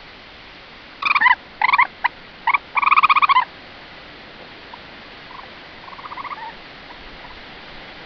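A wild animal's loud calls: four short pulsing calls and then a longer, warbling one, starting about a second in. A much fainter call follows a few seconds later, over steady background hiss.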